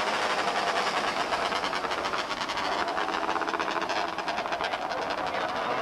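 Small race car engines running at high revs as the cars race, a steady mechanical drone with a fast, even pulse.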